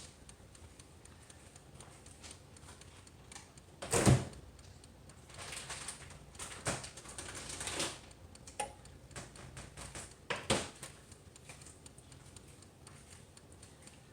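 Knocks and clatter of kitchen parts being handled and set down on the toaster oven. The loudest knock comes about four seconds in, with scraping from about five to eight seconds in and a few lighter clicks and knocks after.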